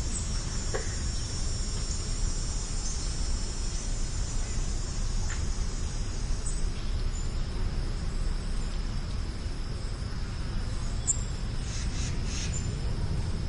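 Steady high insect trill, with a few short high bird chirps and a constant low rumble underneath.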